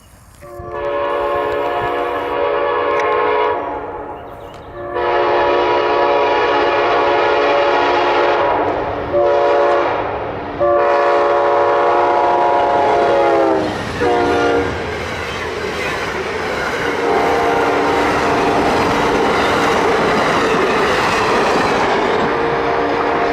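Amtrak locomotive air horn sounding the grade-crossing signal, long, long, short, long, its chord dropping in pitch as the locomotive passes. The passenger train then rushes by with wheels clacking over the rail joints while the horn sounds on at a lower pitch.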